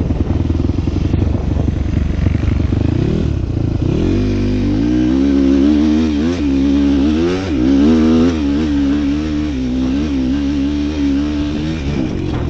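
A small motor vehicle's engine running, rough at first, then revving up from about four seconds in with its pitch wavering up and down, and easing off near the end.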